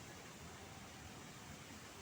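Faint, steady hiss of background noise with a flickering low rumble underneath; no distinct event stands out.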